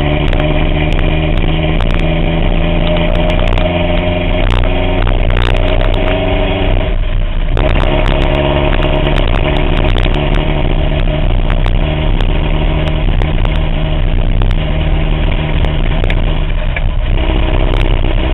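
1987 Toyota 4Runner's 22RE four-cylinder engine running with a misfire, a steady drone that dips briefly about 7 seconds in and again near 17 seconds. The misfire comes from spark plugs fouled by burning antifreeze through a failed head gasket and cracked head.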